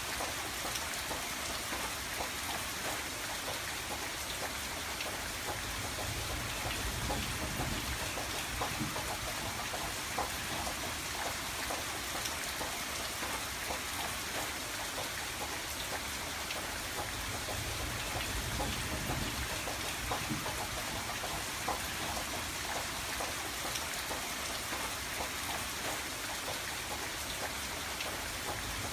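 Steady rain falling on a window, many individual drops tapping amid an even hiss, with a soft low rumble that swells and fades a few times.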